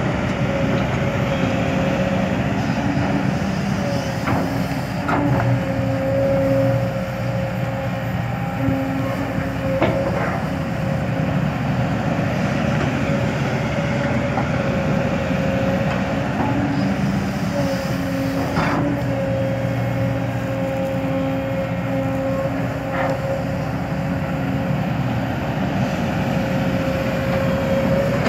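Kobelco SK200 excavator working, its diesel engine running steadily with a steady high-pitched tone over it, and a few sharp knocks now and then.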